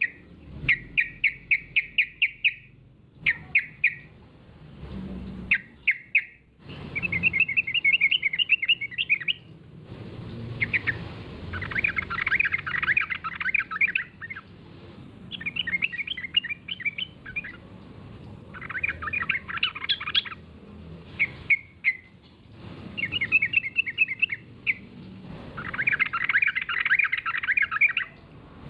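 Yellow-vented bulbul (trucukan) singing in repeated bursts of rapid, bubbly chattering notes, each phrase a second or two long with short pauses between.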